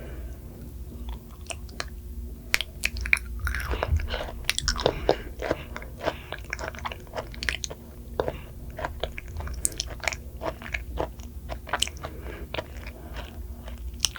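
A person chewing and biting food close to the microphone: a run of short, wet clicks and crunches, sparse at first and coming thick and fast after a couple of seconds.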